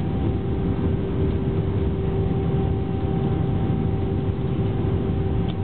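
Airbus A320 cabin noise heard from a passenger seat: a steady low rumble of engines and airflow, with a constant hum running through it.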